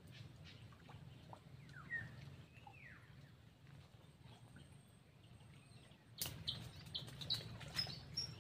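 Birds chirping faintly: a couple of short falling whistled notes about two seconds in, then from about six seconds a quicker run of sharp chirps and clicks that grows louder.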